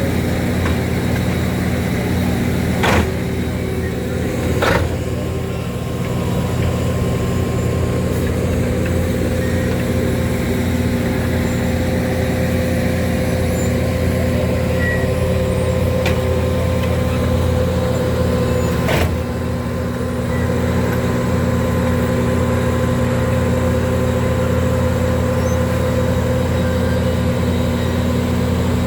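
Heavy road-construction machinery running steadily at a constant engine speed, with a steady whine over the engine. Sharp metallic knocks come about three seconds in, five seconds in and near nineteen seconds.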